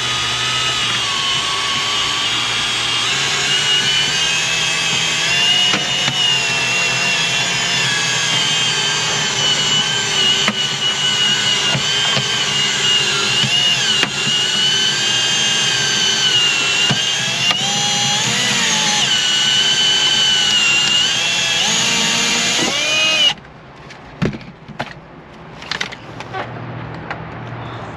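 Power drill winding windshield cut-out line through the urethane, its motor whine wavering up and down in pitch as the load changes. Near the end it stops abruptly, followed by a few knocks.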